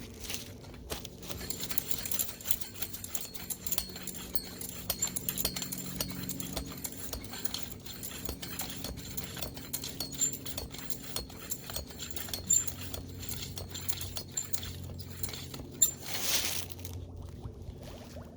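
Small air pump running as it pressurises a radiator for a leak test: a steady low hum with many irregular ticks and clicks. About sixteen seconds in there is a brief burst of hiss.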